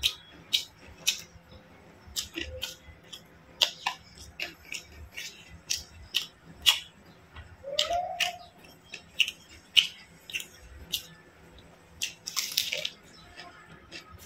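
Close-miked eating sounds of a man chewing fried chicken and fried rice: wet, irregular mouth clicks and lip smacks. A short hummed tone about halfway through and a brief hiss near the end.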